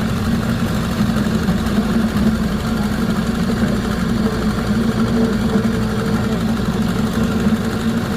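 Ice-crushing machine running steadily with a constant low engine hum and rough mechanical noise.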